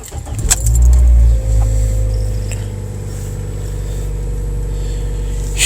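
A 2013 Toyota Corolla's four-cylinder engine is cold-started in freezing weather. It cranks briefly and catches about half a second in. It flares up loudly for about a second, then the revs drop slightly and it settles into a steady idle.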